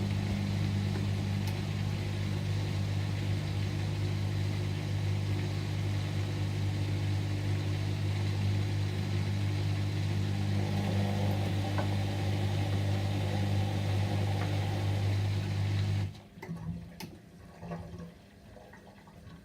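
Whirlpool washing machine running with a steady, deep mechanical hum that cuts off suddenly about three-quarters of the way through, leaving quieter splashing and trickling water with a few small clicks.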